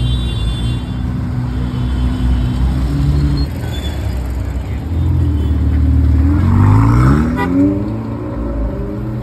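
Ferrari engine running with a steady low drone, then revving hard about six seconds in, its pitch rising quickly for a second or so. A short click comes as the rev peaks.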